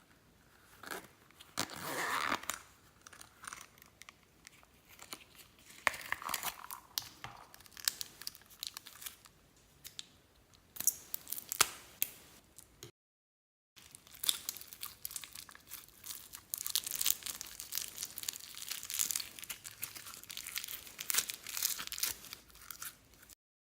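Slime being squished, stretched and pulled apart by hand as makeup and glitter are worked into it, giving irregular sticky crackles, pops and tearing sounds, with a brief dead-silent gap about halfway through.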